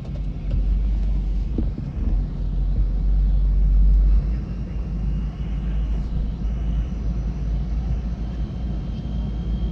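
Duramax diesel pickup engine working hard under sled-pulling load, a deep heavy rumble that drops off sharply about four seconds in. A faint steady high whine runs on after it.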